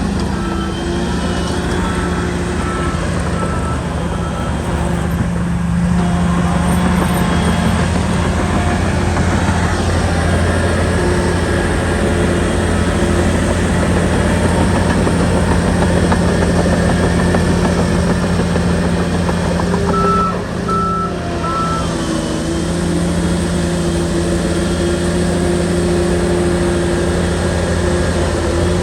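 Shantui bulldozer's diesel engine running steadily while working, with a reversing alarm beeping in an even row for the first few seconds and again about twenty seconds in.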